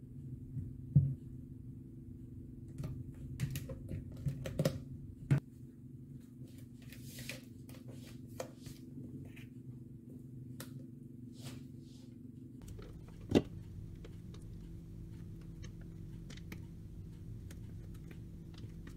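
A spatula scraping through thick cream and knocking against a plastic mixing bowl, with a few sharp clicks, over a steady low hum. A louder single knock comes about 13 seconds in.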